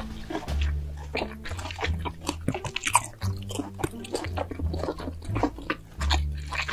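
Close-miked chewing of roasted pork belly: a dense, irregular run of sharp wet crackles and clicks from the mouth.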